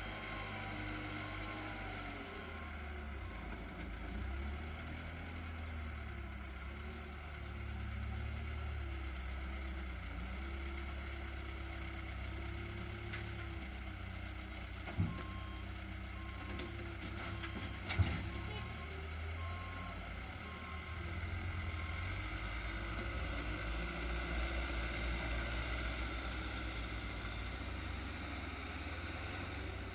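A truck's engine running with a steady low rumble while its reversing beeper sounds in a regular on-off pattern as it backs up. Two sharp knocks come about three seconds apart around the middle, and the engine grows a little louder in the last third.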